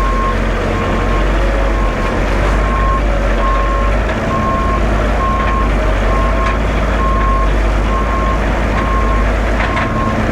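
Concrete mixer truck's reversing alarm beeping steadily, about three beeps every two seconds, over the truck's diesel engine running.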